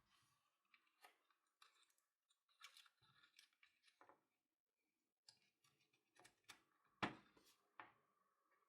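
Faint scattered clicks and light knocks of small parts being handled while a hammer drill is reassembled, the loudest knock about seven seconds in.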